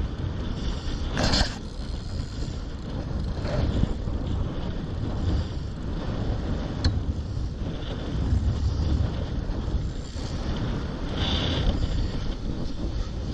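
A boat under way at sea: a steady low engine rumble with wind buffeting the microphone, and a few louder rushes of noise, one about a second in, one near the middle and one near the end.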